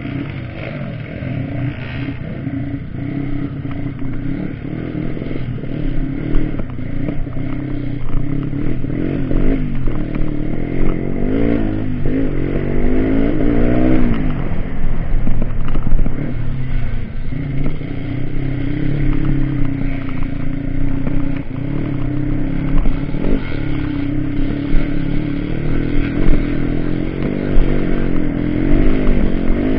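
Trail motorcycle engine running and revving, its pitch rising and falling several times about halfway through, with scattered knocks and rattles.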